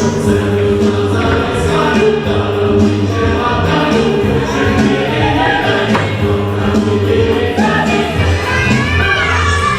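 Music with a choir of voices singing over a steady instrumental accompaniment.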